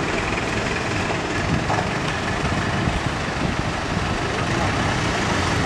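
A vehicle's diesel engine running steadily with a low rumble, during an attempt to tow-start a truck that will not start on its own.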